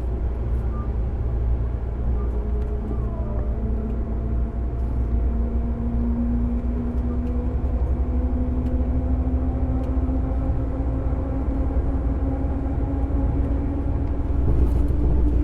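JR 205 series electric train motor car running, heard from inside the car: its MT61 externally-fanned traction motors and gears whine in a slowly rising pitch as the train gathers speed, over a steady low rumble of wheels on rail.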